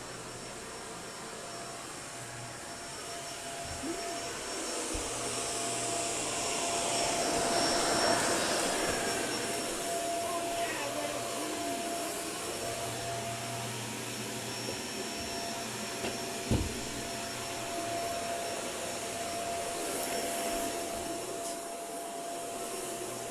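Vacuum cleaner running steadily with a constant whine, its noise swelling and easing as it is worked, with one sharp knock about two-thirds of the way through.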